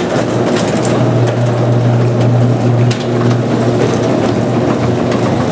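Electric garage door opener running as it moves a repaired aluminium garage door, with a steady motor hum and the door clicking and rattling.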